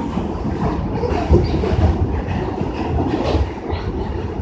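New York City subway car on the A line running, heard from inside the car: a steady low rumble with the clatter of wheels over the track and a sharp knock a little over a second in.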